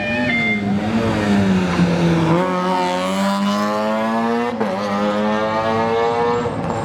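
Rally car engine accelerating hard: the revs climb steeply, drop sharply at an upshift about two-thirds of the way through, then climb again in the next gear.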